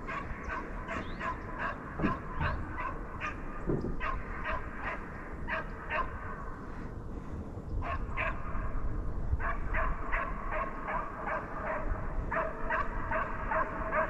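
Deer-chasing hounds giving tongue on a running deer drive: a steady stream of short, quick barks and yelps, pausing briefly about halfway through before picking up again.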